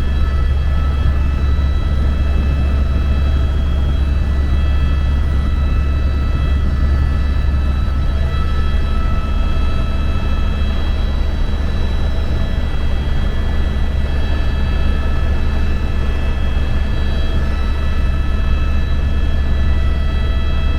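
Helicopter cabin noise in flight: a steady, deep drone from rotor and engine, overlaid with several steady high whining tones.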